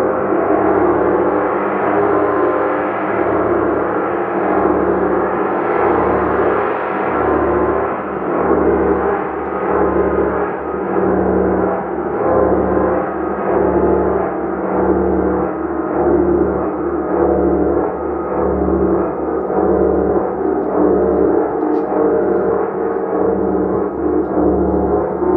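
A gong played continuously: a dense, sustained wash of many overlapping tones with a steady low hum beneath, its loudness gently swelling and ebbing.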